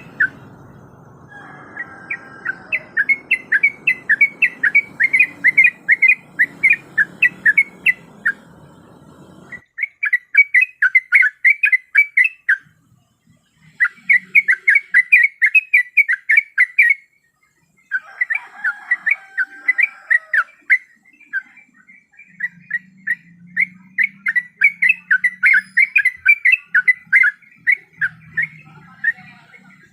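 Yellow-vented bulbul (trucuk) calling in fast runs of short, sharp notes, several bursts of a few seconds each with brief pauses between, used as a lure call. A low background rumble cuts off suddenly about a third of the way in.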